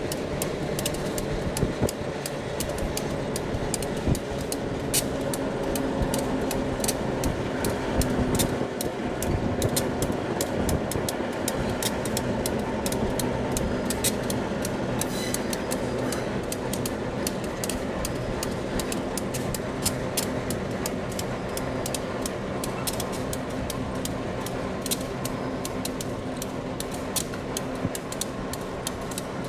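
Diesel locomotive engine running steadily, with many sharp clicks and knocks over it, more frequent in the second half.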